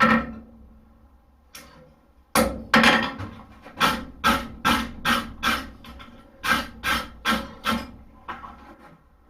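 Blacksmith's hammer striking a hoof pick forged from a horseshoe on the anvil to straighten it. After a short pause, a steady run of about fifteen ringing blows comes at two or three a second.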